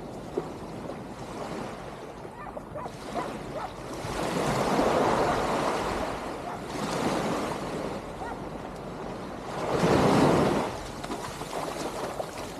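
Ocean waves breaking and washing onto a beach, swelling loudest about five seconds in and again about ten seconds in.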